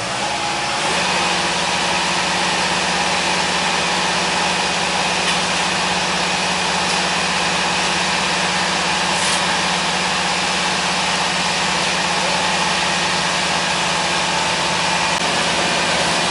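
Engine of road-construction machinery coming up to a steady speed within the first second, then running evenly with a constant drone.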